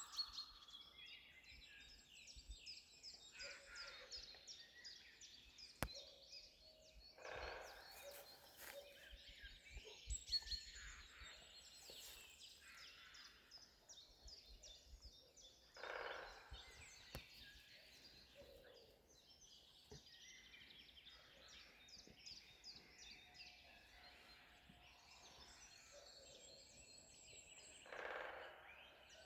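Faint chorus of many woodland birds singing at once, with overlapping chirps and rapid trills throughout.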